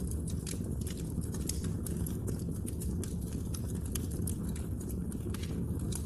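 Wood fire crackling: frequent sharp pops and snaps over a steady low rumble of the burning fire.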